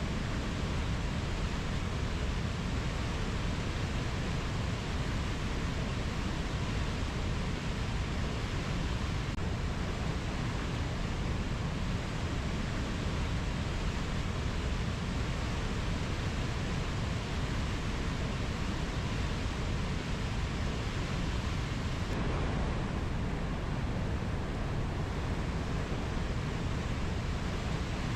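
Steady, even rushing noise of a rainforest ambience, with no distinct bird or insect calls.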